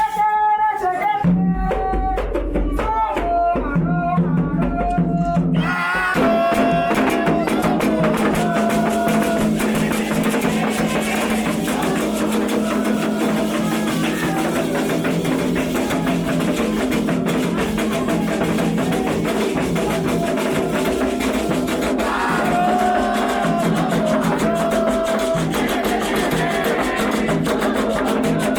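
Candomblé ritual song: a voice singing over sparse accompaniment, then about six seconds in, fast hand drumming comes in and the singing continues over a dense, steady drum rhythm.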